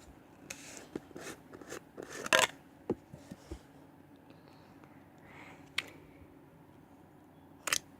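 Plastic slime containers being handled: a run of short clicks and scrapes, loudest about two and a half seconds in, then two single clicks later on.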